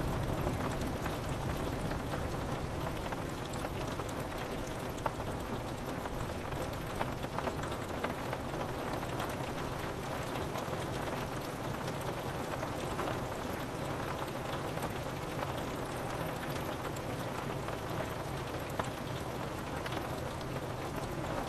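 Steady rain on a window glass, with many scattered drop ticks. A low thunder rumble dies away in the first second.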